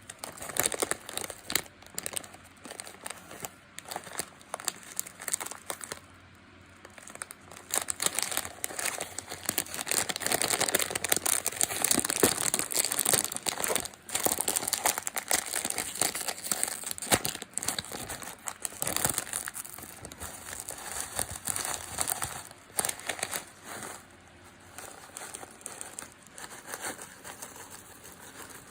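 Plastic snack packaging of Baby Star crispy noodles crinkling and rustling as it is handled. It is a dense run of crackles that is busiest through the middle and quieter near the end.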